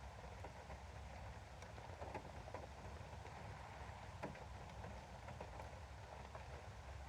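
Rain on a window: a faint steady patter with scattered single drops ticking against the glass, over a low steady rumble.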